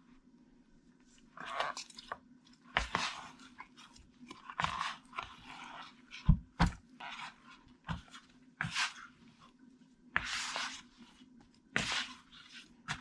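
Roti flour dough being kneaded by hand: irregular short pressing and squashing sounds, with two dull knocks just past the middle.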